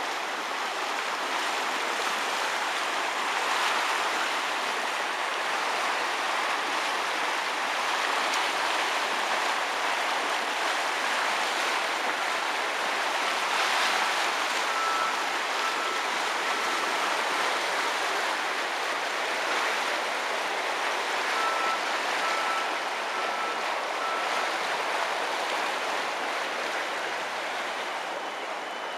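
Steady rushing noise throughout. Twice in the middle, a run of short electronic beeps at one pitch sounds about 0.7 s apart, and a higher steady tone comes in near the end.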